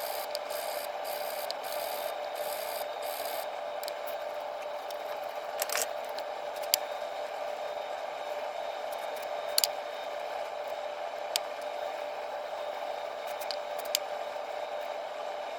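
Wire brush scrubbing rust off steel transmission gears in quick strokes for the first few seconds, then a few sharp metallic clicks as parts are handled, over a steady hum.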